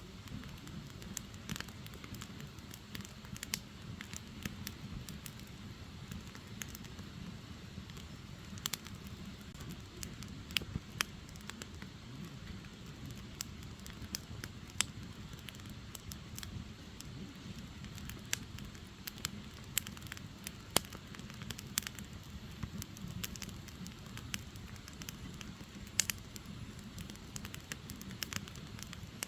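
Firewood burning, a steady low rush of flame with irregular sharp crackles and pops from the burning logs.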